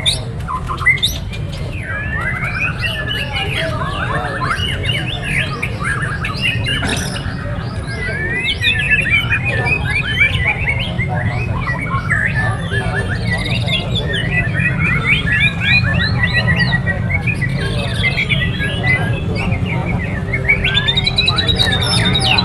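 Many caged songbirds chirping and singing at once, a dense tangle of overlapping chirps, trills and warbles, over a steady low rumble.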